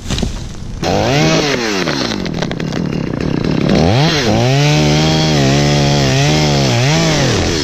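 Two-stroke chainsaw engine revving. Its pitch rises and falls, holds steady at high speed for about three seconds, then drops and surges once more near the end.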